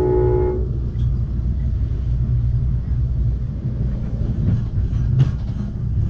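Train horn sounding a chord of several notes that cuts off about half a second in. After it, the steady low rumble of the Amtrak Cascades passenger train rolling along the rails, with a few sharp clicks near the end.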